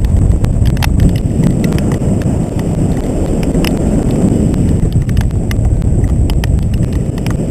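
Wind rushing over the microphone of a paraglider in flight, with scattered sharp ticks at irregular intervals.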